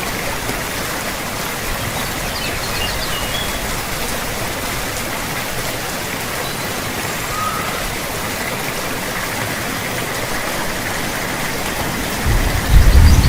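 Steady, even hiss of heavy rainfall. Near the end a loud, deep rumble of thunder breaks in.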